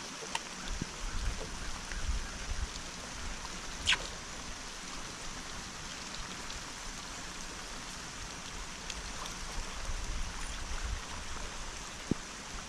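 Steady hiss of water, with gusts of low wind rumble on the microphone. A sharp click comes about four seconds in and a short knock near the end.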